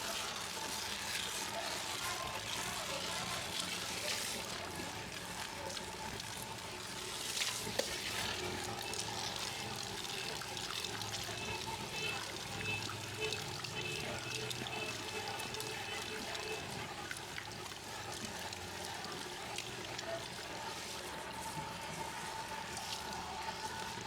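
Running water rinsing hair at a salon shampoo basin, a steady splashing trickle.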